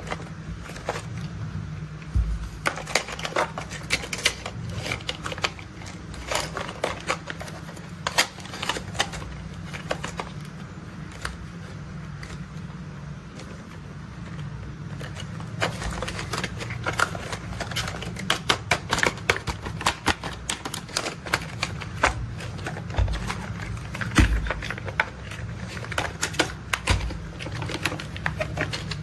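Irregular plastic clicks and taps from handling toy construction vehicles, coming in quick clusters throughout, over a steady low hum.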